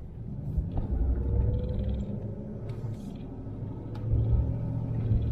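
Car driving, with a low engine and road rumble and a faint engine tone rising slightly in pitch.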